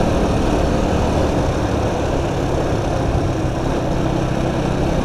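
Honda Biz's single-cylinder four-stroke engine running steadily while riding at a constant speed, mixed with wind and road noise.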